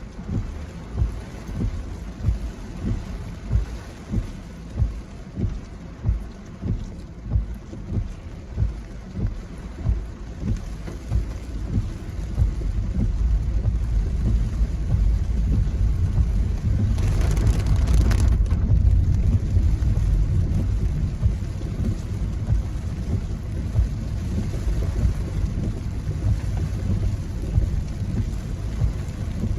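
Typhoon wind buffeting the microphone, a low rumbling noise, with low thuds at a walking pace in the first dozen seconds; from about twelve seconds in the rumble becomes steady and louder, with a brief hissing gust midway.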